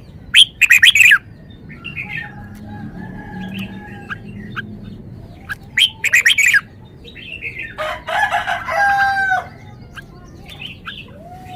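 Red-whiskered bulbul singing short, loud, bright phrases, one near the start and another about six seconds in, with softer chirps between. A longer call with gliding notes follows about eight seconds in, fitting a rooster crowing in the background.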